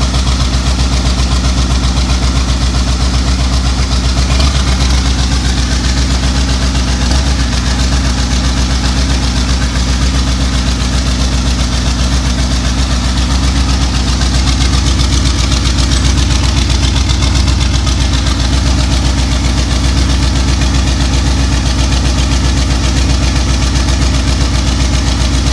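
V8 engine of a chopper trike idling steadily, misfiring on cylinders that are not firing (later found to be numbers 2 and 7). The sound cuts off suddenly near the end.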